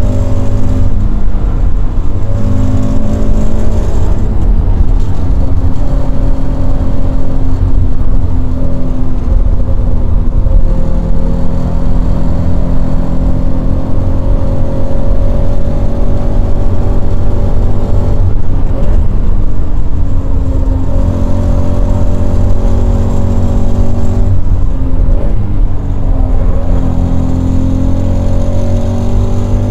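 Toyota GT86's 2.0-litre FA20 flat-four engine, heard from inside the cabin, running hard at high revs. Its pitch climbs repeatedly through the gears and breaks off at a few lifts and shifts: an upshift into fifth, then braking and downshifts to third near the end.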